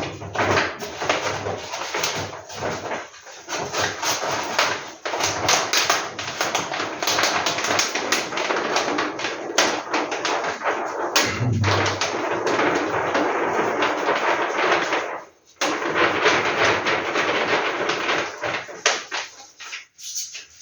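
Posters and their packaging being handled: a steady, dense crinkling and rustling full of quick crackles, with a brief pause about fifteen seconds in and a dull thump a little before that.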